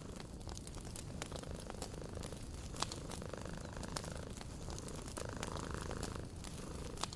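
A cat purring steadily, its purr swelling and easing with each breath about every second, over scattered sharp pops and crackles of a wood fire.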